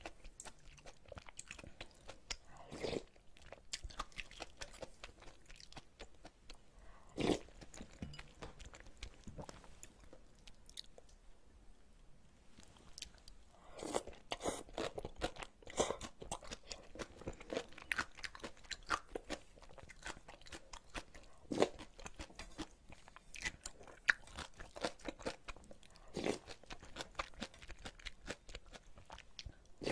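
Close-miked chewing and crunching of ramyeon noodles with bean sprouts, a faint run of small wet clicks with a few louder bites spread through.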